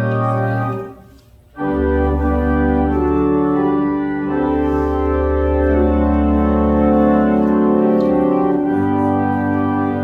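Organ music: sustained chords over a low held bass, with a brief break about a second in before the next chord enters.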